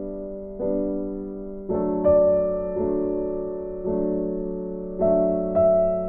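Background music: slow, soft piano, with chords struck about once a second and left to ring out.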